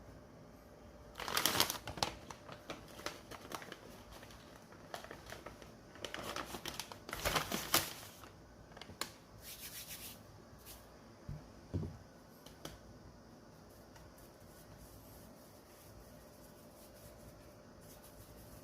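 Rustling and crinkling handling noises in two main bursts, with scattered small clicks and a couple of light knocks.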